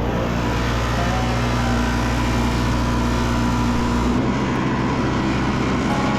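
Tractor engine running steadily, its tone changing about four seconds in.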